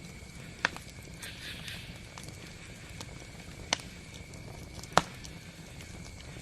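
Wood campfire crackling, with a few sharp pops spaced a second or more apart, the loudest about five seconds in, and a brief hiss about a second in.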